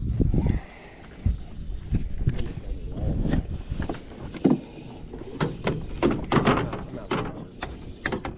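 Irregular knocks, bumps and clatters on a fishing boat while a hooked northern pike is being brought in and landed.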